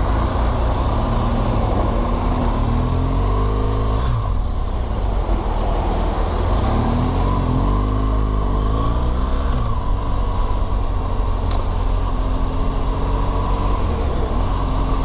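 Motorcycle engine running while riding, its pitch rising and falling twice as it speeds up and eases off, with a steady rush of road noise.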